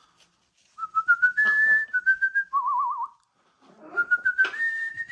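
A whistled tune: clear single notes stepping up and down in pitch, in two phrases, the first ending in a fast warbling trill.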